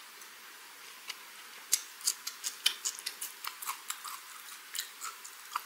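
Close-miked chewing of a bite of gwamegi (semi-dried herring) wrapped in dried laver: a quick, irregular run of sharp mouth clicks, several a second, starting about a second and a half in.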